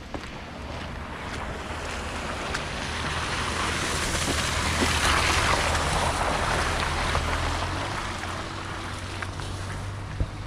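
Boat motor running on the river with a steady low hum, under wind and rushing water that swell to a peak about halfway through and then ease off.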